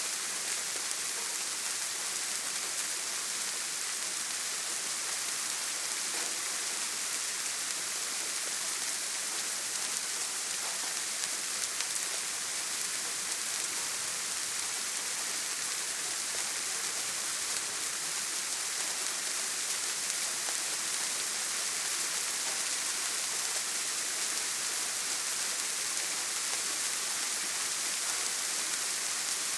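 Steady heavy rain pattering on a tin roof, an even hiss with faint scattered drop ticks.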